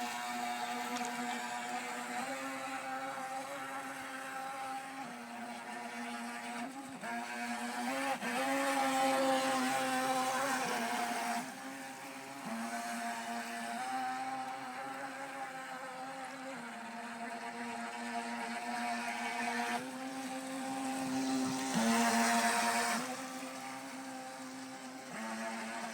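Twin-motor battery-powered RC race boat running on the water: a steady whine with a rushing hiss, shifting a little in pitch and growing louder twice, about a third of the way in and again near the end.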